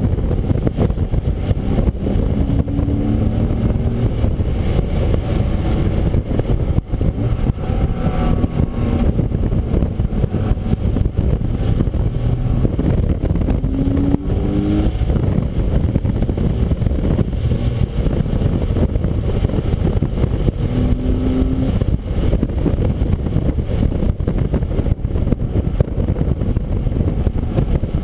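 Car at speed on a wet racetrack, heard from an onboard camera: a dense, steady low rumble of engine, road and wind noise, with the engine note climbing briefly under acceleration a few times.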